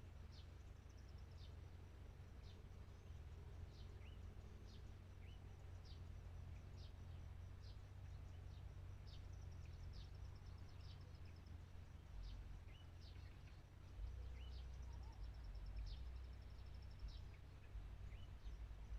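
Faint chirping of small wild birds: thin, high, down-slurred notes repeated about once or twice a second, mixed with short upward chirps. A high buzzy trill comes in twice, with a low rumble of wind underneath.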